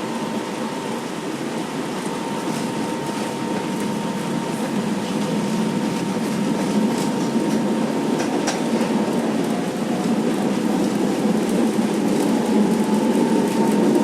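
An old, worn-out tram running on its rails: a steady rumble with a thin whine, growing slowly louder, with a few clicks about halfway through.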